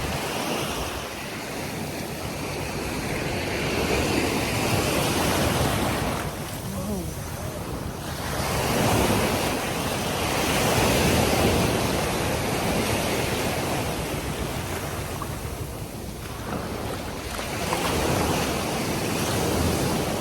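Sea surf washing in on the shore, rising and falling in slow swells every few seconds, with wind rumbling on the microphone.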